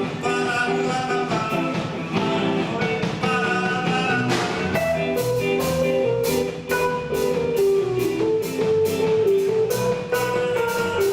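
Instrumental passage of a rock song: guitar and bass over drums, with no singing. A cymbal comes in about four seconds in, keeping a steady beat of about two strokes a second.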